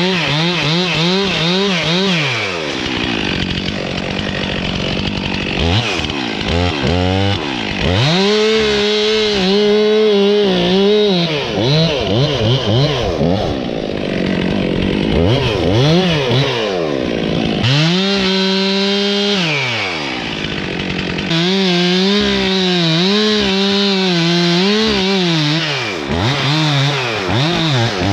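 Two-stroke chainsaw cutting wood, revved up and held at full throttle for stretches of a few seconds, then dropping back between cuts, again and again.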